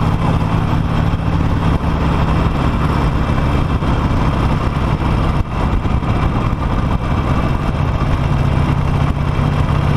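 Harley-Davidson Nightster V-twin engine running steadily at low, even revs, heard from the rider's seat.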